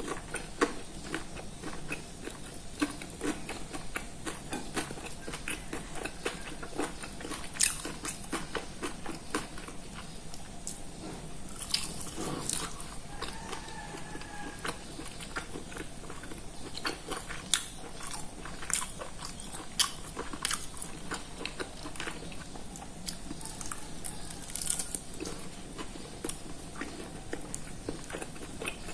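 Close-up chewing and crunching as someone eats crispy fried chicken by hand, with many short, irregular crunches.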